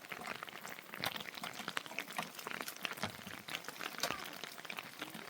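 Rain pattering and dripping as many irregular small clicks over a soft hiss.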